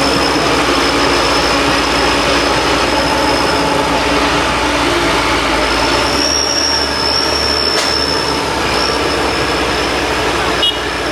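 Heavy diesel engines running steadily under load, with a high steady whine over the engine noise.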